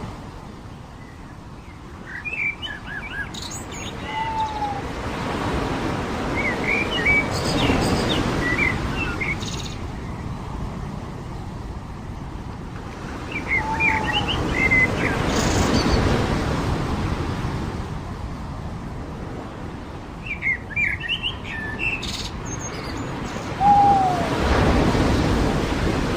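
Surf breaking and washing up the shore in slow swells about every eight seconds. Small birds chirp in short bursts over it, and a lower call with a single falling note repeats about every ten seconds.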